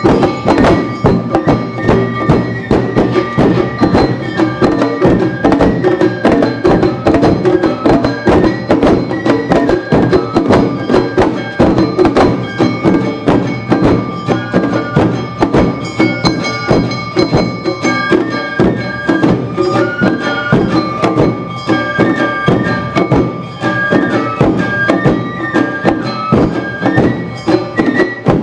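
Awa Odori dance music played live by a troupe's band: fast, steady percussion from drums and a small gong under a high, sustained flute melody with shamisen.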